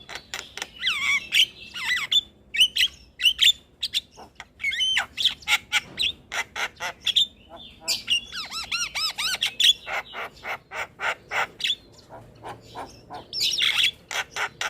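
Black-winged myna (jalak kebo) calling: a dense run of harsh squawks mixed with whistled, sliding notes, with a quick string of looping warbled notes about halfway through.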